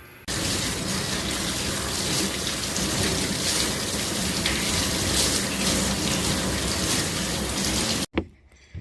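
Steady rush of running water, cutting in abruptly just after the start and cutting off abruptly about eight seconds in.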